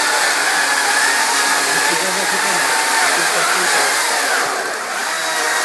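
Cordless battery chainsaw running at full speed with a steady electric whine, its pitch sagging briefly about four seconds in.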